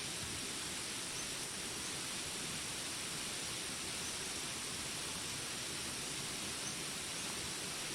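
Steady rain falling, an even hiss that does not let up, with a few faint short high chirps now and then.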